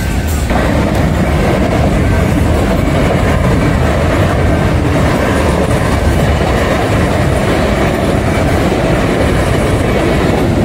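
Passenger train running past, with a steady rumble of wheels on the rails that grows a little louder about half a second in.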